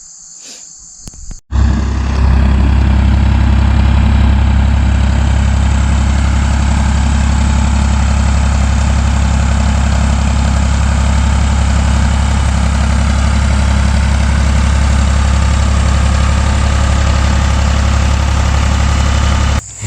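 Backhoe engine idling steadily at close range. It cuts in abruptly about a second and a half in and stops abruptly near the end.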